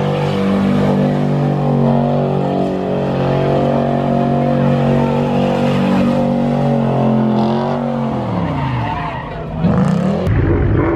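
A car engine held at high, steady revs while the tyres spin and squeal on the pavement. About eight seconds in, the revs fall away, and then a louder rush of noise takes over.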